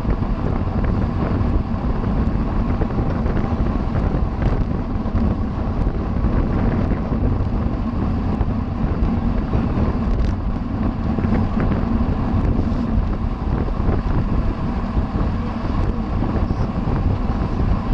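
Steady wind rushing over the microphone of a camera riding along on a racing bicycle at speed.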